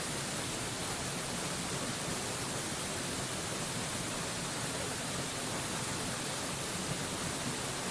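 Mountain waterfall rushing steadily, an even hiss with no let-up or separate splashes.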